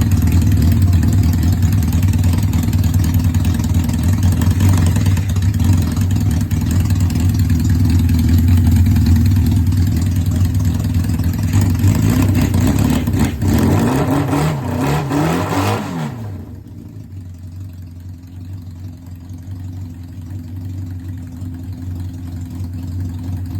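Suzuki GS500 air-cooled parallel-twin engine idling through open straight pipes, with no mufflers. About two-thirds of the way through the revs rise and fall once, then the engine settles back and idles more quietly.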